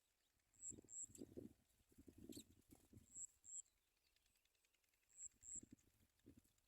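Faint scratchy rustling in short bursts as a bird moves about the nest, with a high, thin double chirp repeated about every two seconds.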